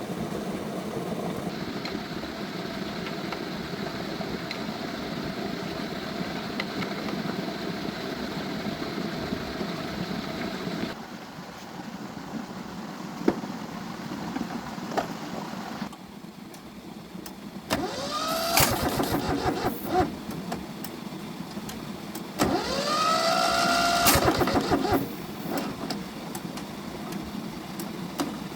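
A motor running steadily, then, after abrupt changes, a motor spinning up twice with a whine that rises in pitch and levels off.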